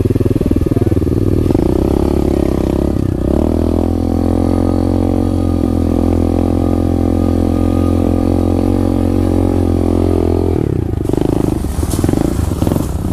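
SSR 125 pit bike's single-cylinder four-stroke engine running close to the microphone while being ridden. Its pitch shifts over the first few seconds, holds steady at constant revs for several seconds, then drops and varies again near the end.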